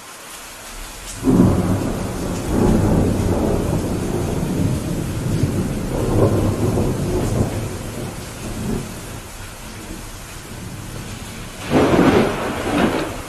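Steady rain falling during a thunderstorm. About a second in, a thunderclap breaks out and rolls on as a low rumble for several seconds before dying away, and a second, sharper clap of thunder comes near the end.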